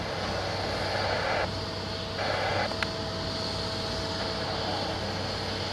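Steady jet engine noise on an airport apron, with the hiss of an airband radio cutting out and back in abruptly a couple of times and a single sharp click partway through.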